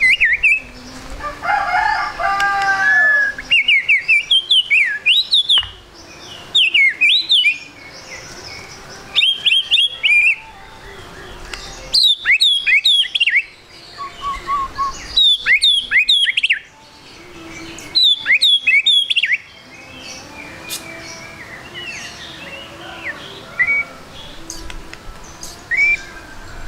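White-rumped shama (murai batu) singing in about six bursts of rapid, sharply gliding whistled notes with short pauses between them. Near the end the song thins to a few scattered quieter notes.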